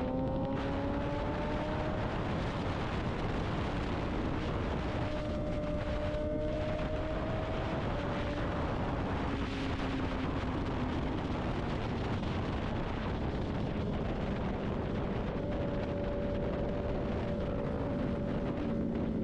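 Motorcycle riding at speed with heavy wind noise on the helmet microphone over the engine. The engine's pitch rises in the first couple of seconds as it accelerates, then holds fairly steady.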